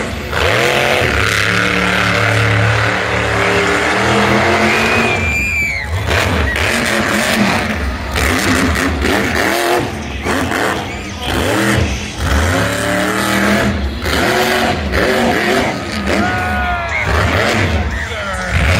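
Monster truck engine revving hard, its pitch climbing and dropping again and again, with brief high squeals near the middle and again near the end.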